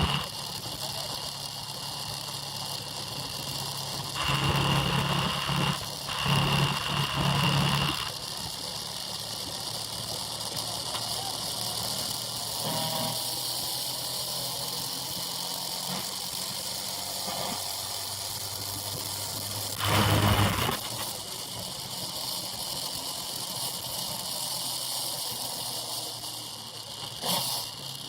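A motorbike engine grows louder as it passes, twice: a longer, unsteady pass about four to eight seconds in and a brief one about twenty seconds in, over a steady hiss.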